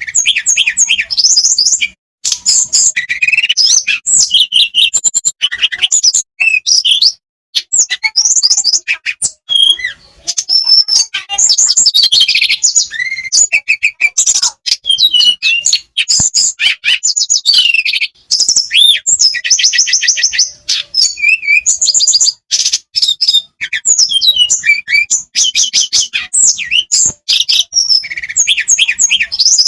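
A tledekan flycatcher singing a long, nearly unbroken song of rapid high trills, chirps and gliding whistles, with only brief pauses. This is a pancengan recording meant to prompt other caged birds to sing.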